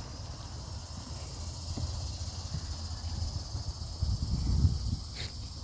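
Steady high-pitched chirring of insects, over an irregular low rumble on the microphone that grows heavier about four seconds in.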